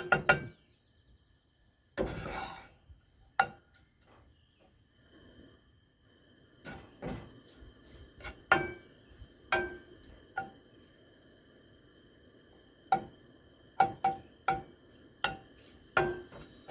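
A cooking utensil knocking and scraping against a frying pan as eggs are stirred and turned: sharp, irregular clinks with a short ring, coming more often in the second half.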